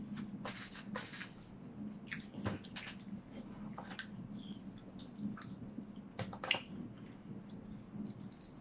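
Close-miked eating: wet chewing, lip smacks and mouth clicks from a mouthful of rice and seaweed, coming irregularly, over a low steady hum.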